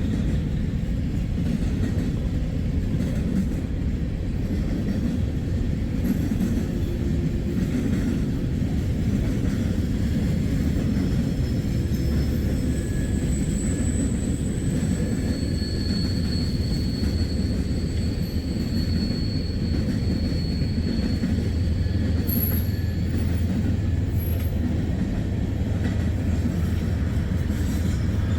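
CSX freight train cars rolling past with a steady low rumble. Thin, high wheel squeals come and go through the middle of the passage.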